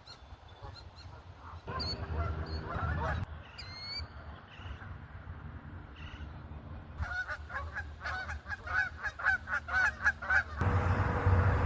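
Canada geese honking: a call about two seconds in, then a rapid run of honks lasting about three and a half seconds, with thin high peeps scattered through the first half. A steady low rumble comes in near the end.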